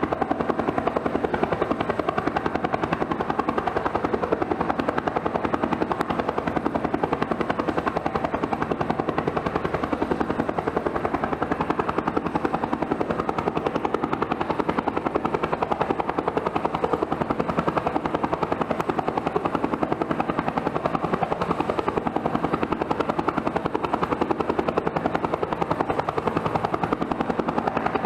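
Helicopter running steadily, its turbine engine and rotor blades making an even, rapid beat with no change in pitch or loudness.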